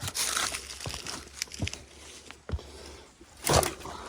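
Irregular rustling, crunching and a few sharp knocks of someone scrambling over rock and loose debris, the loudest scrape about three and a half seconds in.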